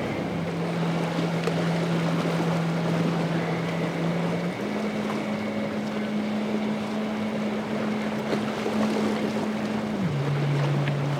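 Boat engine droning steadily over wind on the microphone and surf. Its pitch steps up about four seconds in and drops again near the end.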